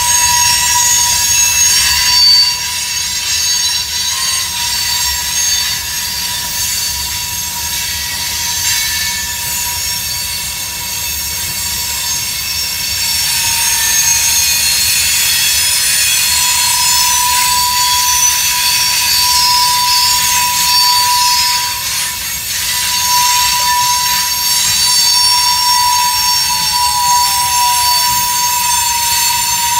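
Long freight train of covered hoppers and open gondolas rolling past, its wheels and rails giving a steady rumble with a continuous high-pitched wheel squeal over it. A little after halfway the squeal gets louder, and near the end one squeal tone slides down in pitch.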